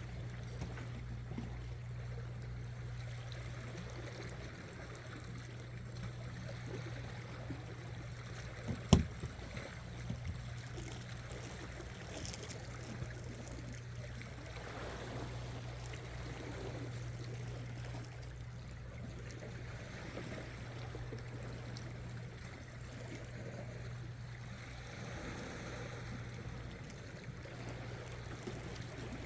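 Sea water washing and lapping against shore rocks over a steady low hum. One sharp knock about nine seconds in, followed by a few faint clicks.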